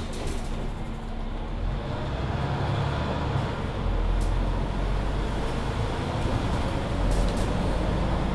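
Mercedes-Benz Citaro C2 hybrid city bus under way, its diesel engine and Voith gearbox running steadily with low road rumble. A faint whine rises slowly in pitch from about two seconds in as the bus picks up speed.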